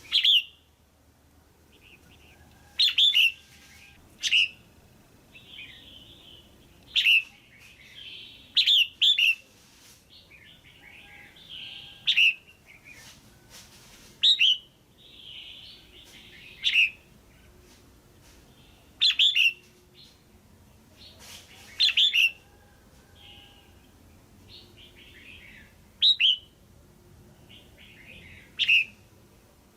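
A female red-whiskered bulbul calling, with short sharp notes every two to three seconds, some in quick pairs or threes, and softer chattering in between. This is the kind of female call that keepers play to rouse male bulbuls or to pair birds.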